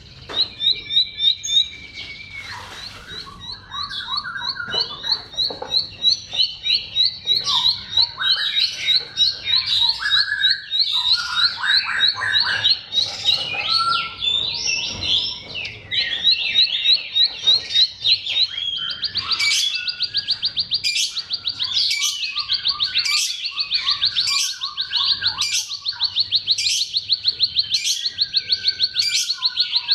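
Bar-winged prinia (ciblek) song: quick, varied high chirping phrases, turning about two-thirds of the way through into a fast continuous trill, cut through by a sharp higher note about once a second.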